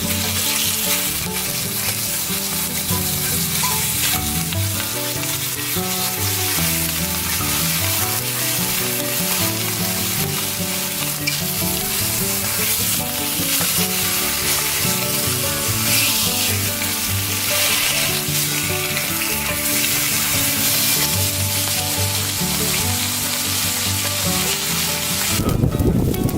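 Food frying in oil in a pan, with a steady, dense sizzle that drops away about a second before the end.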